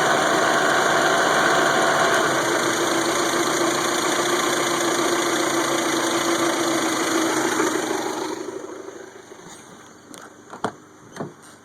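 1992 Toyota Camry four-cylinder engine running steadily, then winding down and stopping about eight seconds in, followed by a few clicks. The engine's misfiring and stalling was traced to weak spark from a corroded distributor cap and rotor.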